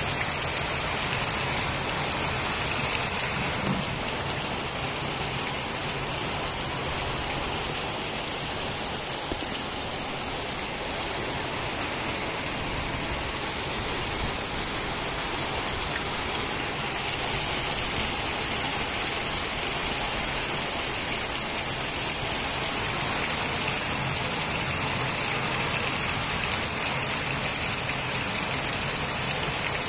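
Heavy rain pouring steadily, a dense even hiss of rain falling on concrete rooftops and walls.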